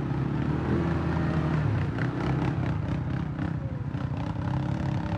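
Polaris ATV engine running, its pitch rising and falling as the throttle is worked.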